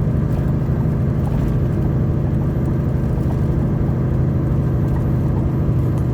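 Semi truck's diesel engine running steadily at cruise with road noise, heard from inside the cab as a low, even hum.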